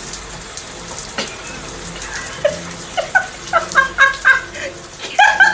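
A parrot giving a quick run of short, pitched calls, about three a second, starting a couple of seconds in.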